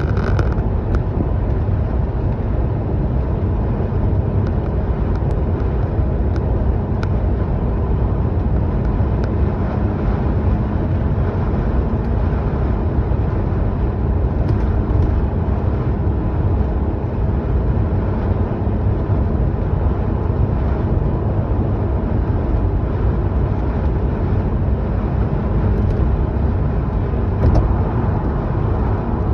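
Arden car driving at a steady pace: continuous engine and road noise, deep and even throughout, with no marked revving.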